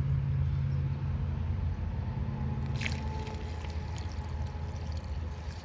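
Gasoline being poured from a gallon container into a car's fuel tank through a makeshift paper-plate funnel, gurgling, over a steady low rumble. A brief sharp sound about three seconds in.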